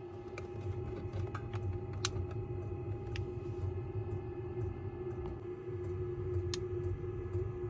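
A steady mechanical hum: a low rumble with a constant mid-pitched tone over it, and a few faint clicks.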